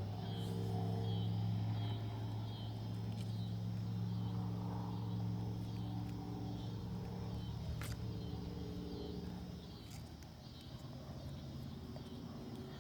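A steady engine hum with an even low pitch, fading away about ten seconds in.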